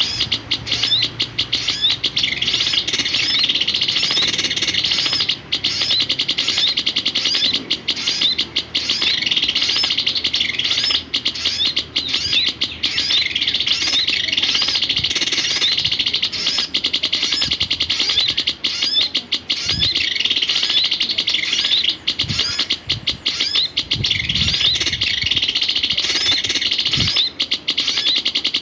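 Sirpu songbird chirping in a fast, unbroken run of short rising notes, with a few low thuds in the second half.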